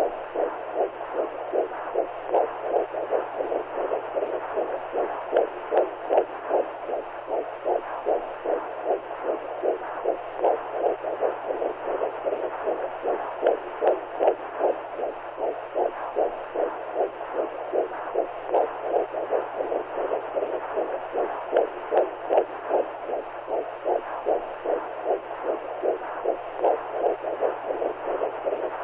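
Womb sound: a muffled, whooshing heartbeat pulse, about two beats a second, over a steady rushing noise, as a baby hears it inside the mother's belly.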